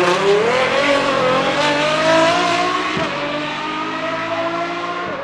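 Apollo IE hypercar's naturally aspirated V12 at high revs, its pitch climbing at first and then holding high and wavering as the car pulls away, the sound fading steadily into the distance.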